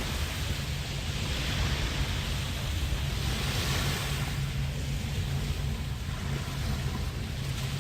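Bay waves washing onto the beach, the hiss of the water swelling and fading every couple of seconds, over a steady low rumble of wind on the microphone.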